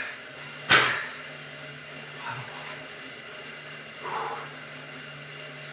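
Steady mechanical hum of a stationary exercise bike being pedalled, with one sharp knock under a second in.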